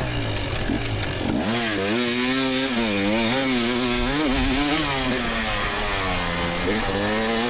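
2024 GasGas EX300 two-stroke dirt bike engine revving up and down as it is ridden through woods trail sections, the pitch dropping off about a second in and again near the end before climbing back. The blipping rise and fall is typical of working the throttle and clutch through tight corners.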